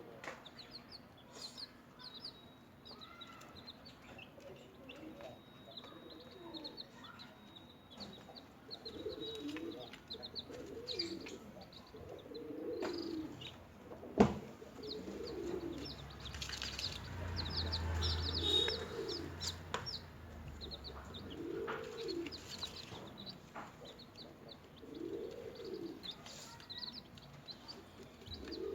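Newly hatched chicks peeping, many short high chirps in quick runs, with a low rising-and-falling call repeated every few seconds. One sharp knock comes about halfway, followed by a few seconds of rustling.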